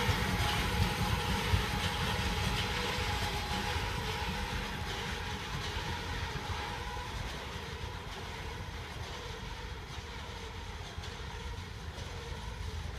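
Freight train's last boxcars rolling past on the rails, a steady rumble that fades as the train moves away. A thin steady whine dies out about halfway through.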